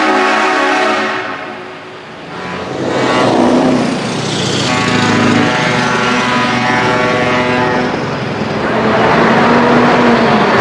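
Truck air horns sounding in long, chord-like blasts: the first fades out about two seconds in and another set of blasts follows from about three seconds. Near the end the horns give way to a more even rushing noise.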